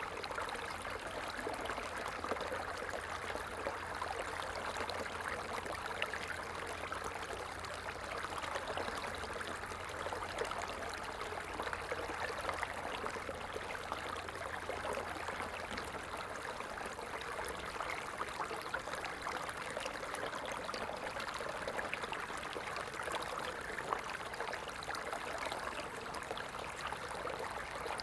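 Small stream flowing steadily, a continuous babbling trickle of water. A low steady rumble sits underneath and stops a little past halfway.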